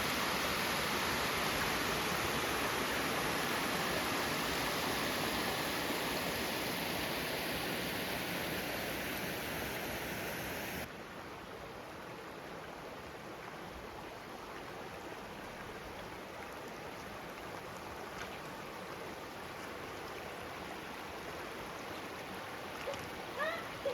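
Running creek water, a steady rushing noise that drops suddenly to a quieter level about eleven seconds in.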